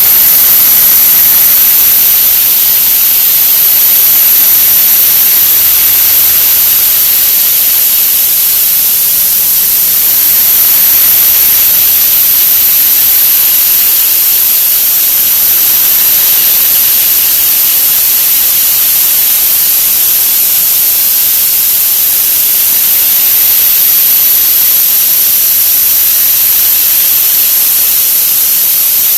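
A 'wha wha' sound effect sped up so many times over that it has turned into a loud, steady hiss with a constant high whine on top.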